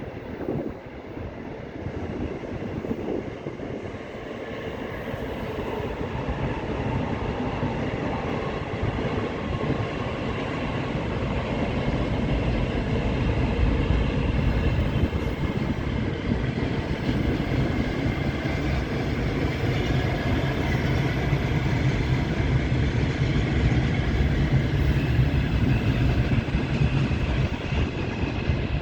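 Electric train running on the rails, growing steadily louder as it approaches over the first half, then running loud and steady as it passes.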